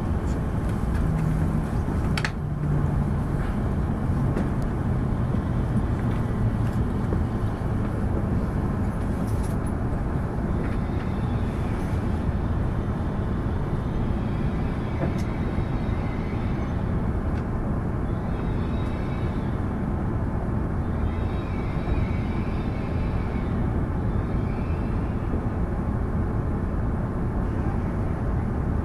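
Tohoku Shinkansen train heard from inside the passenger cabin, decelerating into a station: a steady low rumble, with a low hum that drops in pitch over the first several seconds as the train slows.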